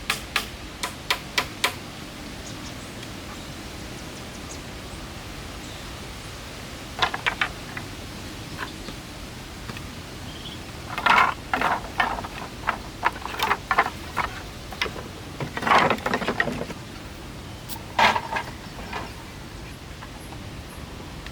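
Hammering, about three blows a second, that stops about two seconds in. Later come scattered knocks and rustling handling sounds over a steady hiss.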